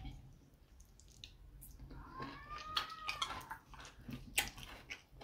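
Close-miked eating sounds of fufu and ogbono soup being chewed: scattered wet mouth clicks and smacks. A faint high note rises and falls about two seconds in.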